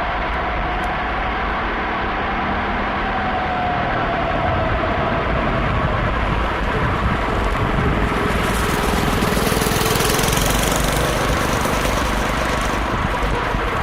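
Homemade go-kart's small petrol engine running under way, its pitch drifting up and down with the throttle. Extra hiss of tyres and wind comes in around the middle and eases near the end.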